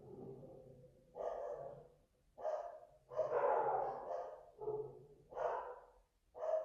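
Dogs barking repeatedly, a bark roughly every second.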